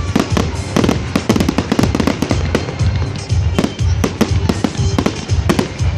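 Fireworks display: a rapid string of bangs and crackling bursts, several a second, over loud background music.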